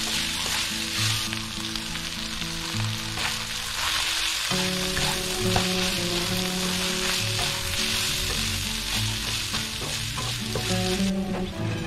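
Minced pork and chillies sizzling in a hot nonstick wok, stirred and tossed with a spatula, with holy basil leaves mixed in partway through.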